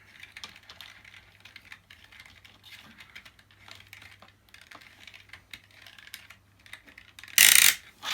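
Plastic parts of a Dyson DC50 vacuum being handled as its ball assembly is fitted back on: a run of small plastic clicks and taps, then one loud clack near the end as a part snaps into place.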